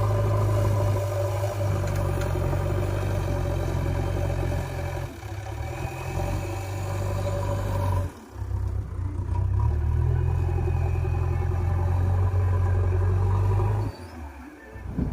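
Diesel engine of a JCB backhoe loader working under load while loading soil, rising in pitch as it revs up and dropping back briefly a few times.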